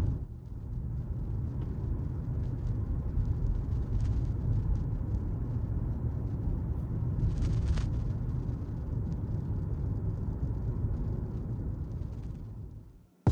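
Steady low rumble of a car on the move, with a brief higher hiss about seven seconds in; it fades out near the end.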